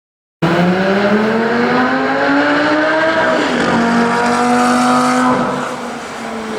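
Lamborghini Gallardo V10 engine accelerating hard. It cuts in abruptly, climbs in pitch for about three seconds, drops at an upshift, then holds steady and eases off near the end.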